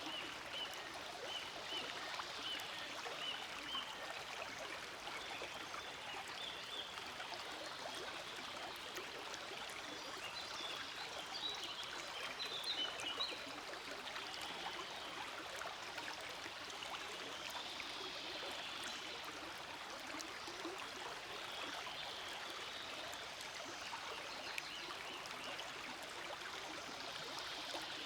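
Forest stream flowing steadily, an even rushing wash of water. Faint short high chirps repeat in the first few seconds and again around halfway.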